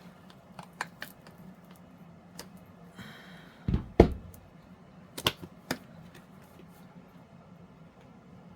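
Cured resin trays and a silicone mold being handled on a tabletop: scattered light clicks and taps, with a heavier double knock about four seconds in and two sharp clicks a second or so later.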